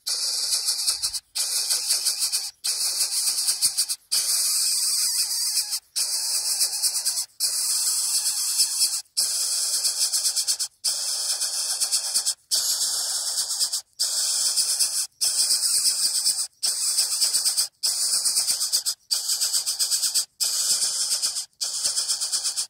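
Coucal chick giving harsh, hissing begging calls in long rasping bouts, each about one to two seconds, with a brief pause between them: a nestling begging for food.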